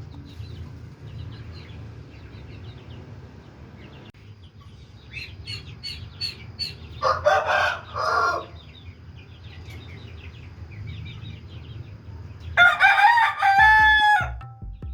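Aseel rooster crowing: a shorter two-part call about seven seconds in, then a full, louder crow near the end whose last note is held. Faint high chirps from small birds come just before the first call.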